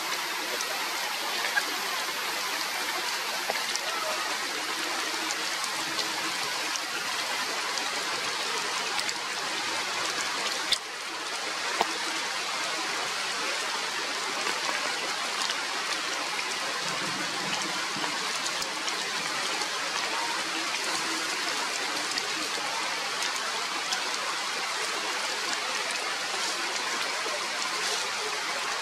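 Steady rain falling through tree foliage, with scattered drips ticking and one sharper tick about eleven seconds in.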